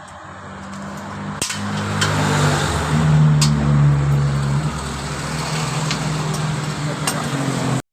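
Honda Vario scooter engine running, growing louder over the first few seconds as it is revved and then holding steady, with a sharp click about a second and a half in.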